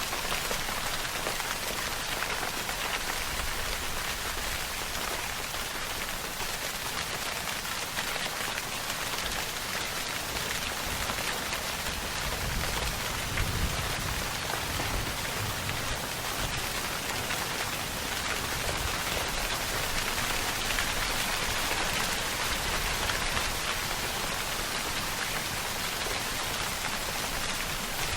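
Steady rainfall, a dense even hiss of drops pattering on a surface, with a soft low rumble swelling for a few seconds about halfway through.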